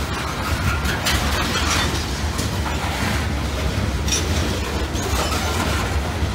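Loaded coal hopper cars of a CSX freight train rolling past close by: a steady low rumble of wheels on rail, with scattered sharp clanks and clicks from the cars and couplers.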